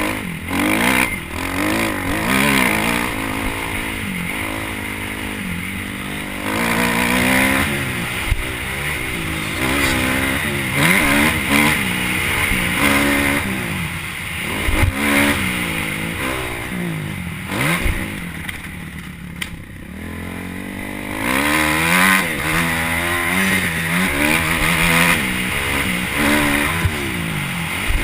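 Motocross dirt bike engine revving up and falling back again and again as the throttle is opened and shut, with a few sharp thumps in between. It eases off briefly about two-thirds of the way through, then revs hard again.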